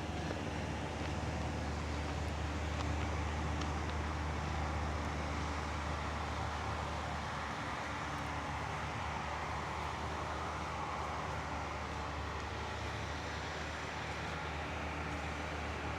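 Steady rumble of road traffic, with a low hum underneath and a slight swell about halfway through.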